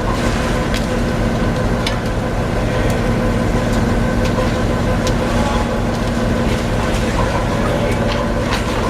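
Heavy machinery running steadily with a constant hum, with scattered sharp clanks and knocks, typical of mechanised fish unloading at a harbour quay.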